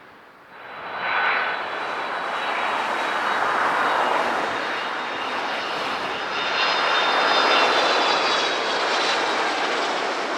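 Jet airliner's engines, loud and steady, setting in abruptly about half a second in, with a thin high whine over the rush of engine noise.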